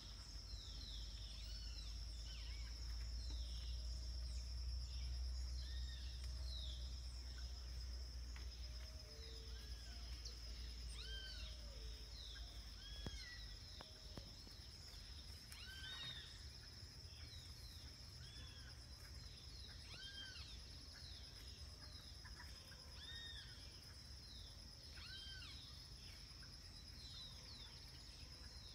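Dawn chorus: many short, arched bird calls repeating every second or two over a steady high-pitched insect drone, with a low rumble that fades after the first half.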